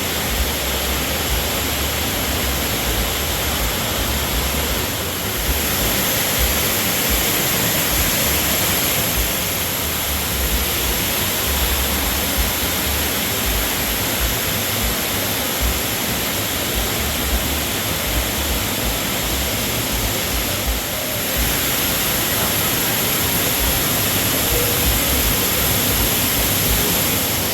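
Loud, steady rushing noise with no break, with wind buffeting the microphone in low, irregular rumbles.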